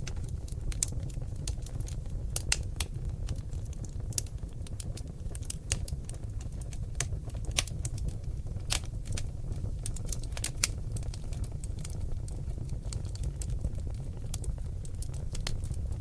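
Seasoned oak logs burning in a fireplace: irregular sharp crackles and pops over a steady low rumble of the flames, with a few louder snaps scattered through.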